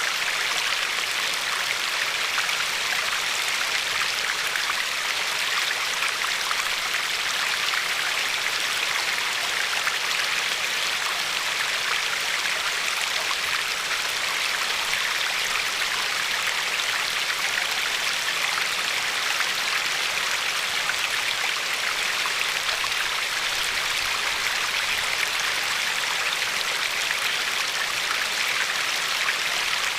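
Glacier-fed river flowing steadily over a pebbly bed, a continuous even rush of water with fine splashing.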